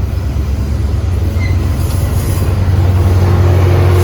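Train running close by: a loud, steady low rumble that grows a little louder near the end, when a steady higher tone joins it.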